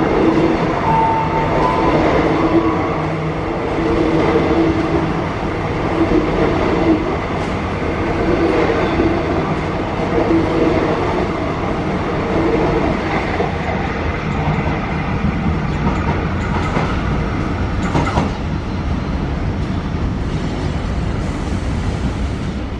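Soekarno–Hatta airport rail link electric multiple-unit train running past at close range: a steady rumble of wheels and running gear with a repeating clack of wheels over the rails.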